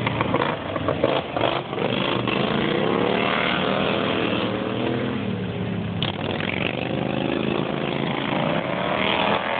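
Several two-cylinder racing lawnmower engines running hard together. Their pitch rises and falls as they accelerate, back off and pass, with a few sharp clicks in the first two seconds.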